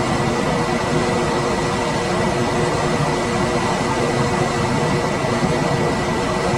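Room air conditioner running steadily: an even rush of fan air with a faint thin high tone and a low hum held throughout.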